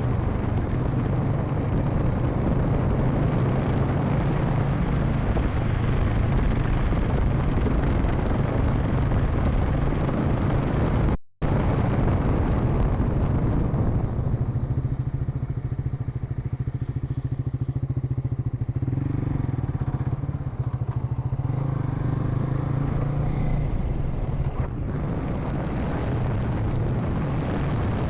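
Motorcycle engine running steadily under way, with road and wind noise. The sound drops out for an instant about eleven seconds in.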